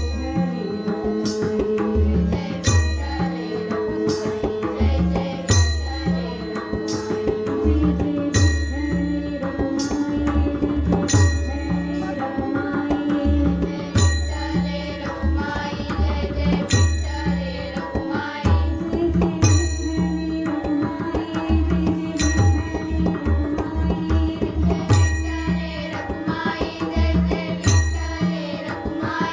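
Marathi bhajan music in an instrumental stretch: a hand drum plays a steady rhythm under sustained melodic tones, with a bright metallic strike about every second and a half.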